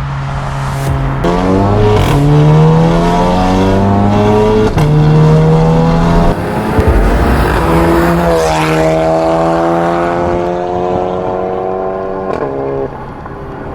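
Audi TT 45 TFSI's turbocharged four-cylinder engine, breathing through a decatted downpipe and stainless cat-back exhaust, accelerating hard. Its note climbs again and again, breaking off at each gearshift, with short sharp pops at some of the shifts.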